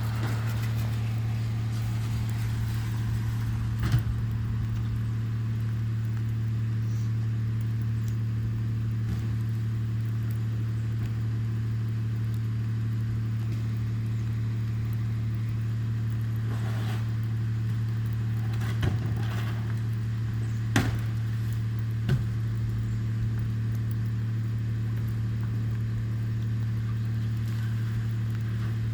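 A vehicle engine idling with a steady low hum, with a few short sharp knocks scattered over it.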